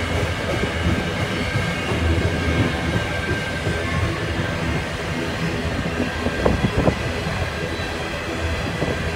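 Freight train of covered hopper cars rolling past: a steady rumble of steel wheels on rail with a faint high squeal, and a short cluster of clacks about six and a half seconds in.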